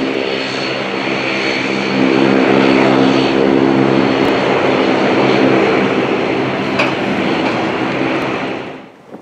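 Embraer 190 airliner's twin GE CF34-10E turbofan engines on its landing approach: a steady jet roar with a high, even whine, growing louder about two seconds in and dropping off sharply near the end.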